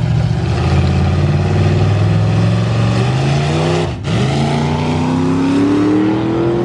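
Car engine accelerating hard, its pitch climbing steadily. About four seconds in it drops briefly, as at a gear change, then climbs again.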